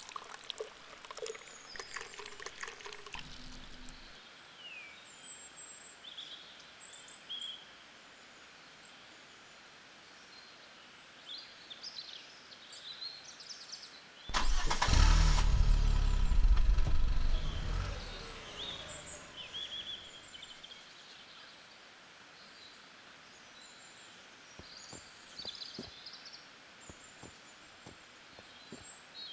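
Birds chirping, with a loud low rush about halfway through that starts suddenly, holds for about three seconds and then fades away.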